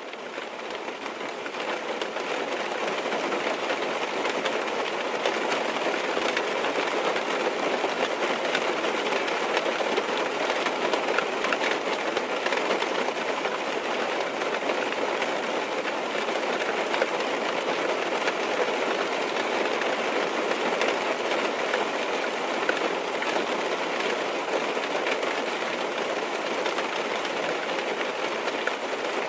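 Steady rain falling on a car's roof and windows, heard from inside the car, a dense patter of drops fading in over the first few seconds and then holding even.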